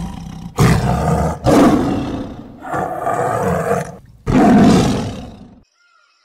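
Tiger roaring: a run of five loud, rough calls, each about a second long, stopping shortly before the end.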